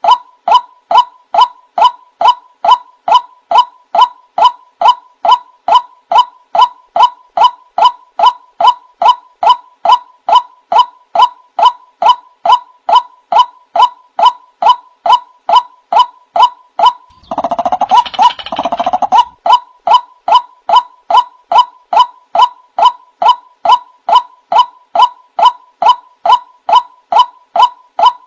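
Male white-breasted waterhen (burung wak-wak) calling, a loud monotonous 'kwak' note repeated about twice a second. About 17 seconds in, the run breaks for about two seconds into rougher, jumbled calling, then carries on as before.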